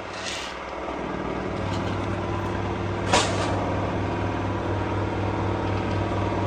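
LG F1222TD washing machine on its final spin, the drum turning at speed with a steady machine hum that grows slightly louder over the first couple of seconds. A brief sharp knock or rattle cuts through about three seconds in.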